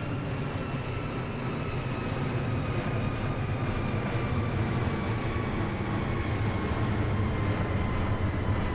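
Steady rumble of a vehicle, with faint whining tones that slowly fall in pitch and a gently rising overall level.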